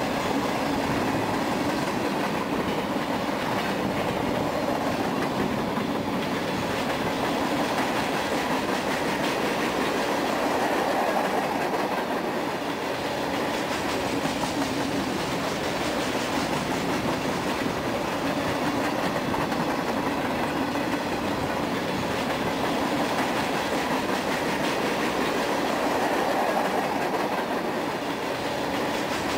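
Freight train rolling steadily past, its wheels clattering over the rail joints with a continuous rumble.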